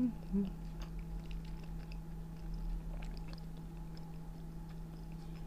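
Quiet chewing of a shawarma, with faint scattered wet mouth clicks, over a steady low hum.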